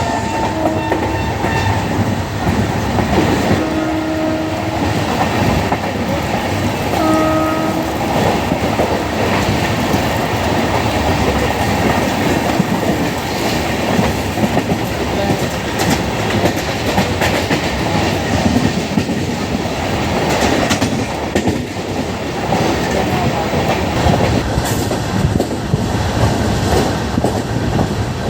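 Train running at speed, wheels clattering steadily on the rails. A train horn gives three short honks in the first eight seconds.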